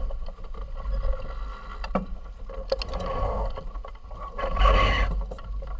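Aboard a racing sailing yacht: water rushing along the hull, with wind buffeting the microphone. There are a couple of sharp knocks about two seconds in, and a louder surge of rushing water near the end.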